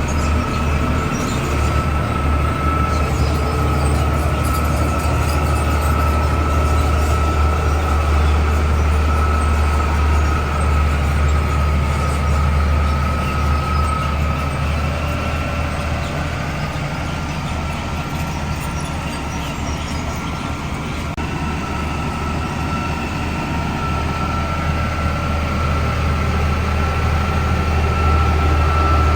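Komatsu D41P crawler bulldozer's diesel engine running steadily under load, a deep hum with a steady high whine over it as the dozer pushes rock.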